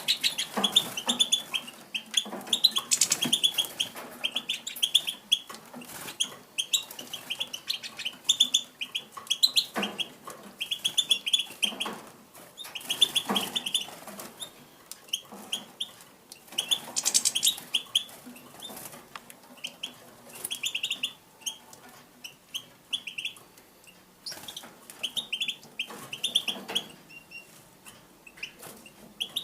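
Captive finches in an aviary calling: quick runs of short, sharp chirping notes, one run after another every second or two.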